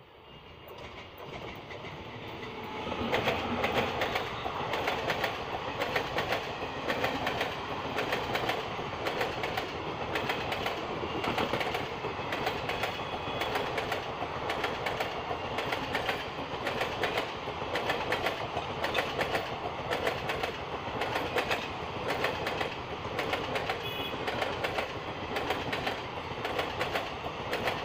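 Express train of old ICF passenger coaches behind a WAP-5 electric locomotive passing at speed. The noise builds over the first three seconds, then holds as a steady rush of wheels on rails, full of rapid clickety-clack from the wheels running over the rail joints.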